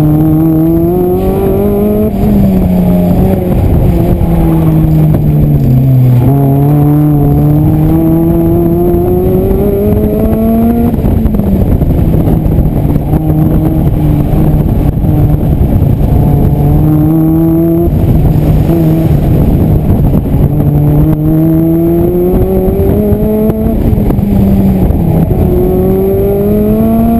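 Engine of an open-top race-prepared roadster driven hard around a cone course, heard from the open cockpit. The revs climb, drop and climb again over and over as the driver accelerates, lifts and brakes between the cones.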